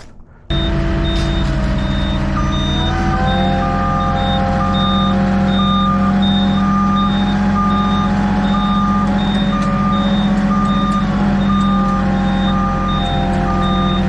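Backup alarm beeping steadily, about one beep a second, over the running diesel engine of a reversing delivery vehicle. The engine note rises a little about three seconds in.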